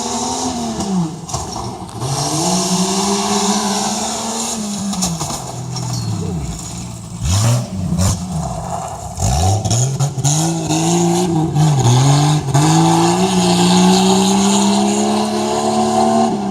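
A Tuff Trucks competition truck's engine running hard on the course, revving up and dropping back several times. The revs fall low and uneven in the middle, then climb and stay high near the end.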